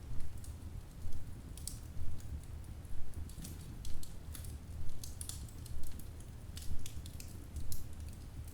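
Wood fire burning in a fireplace, crackling and popping with many short, irregular snaps over a low rumble that swells about once a second.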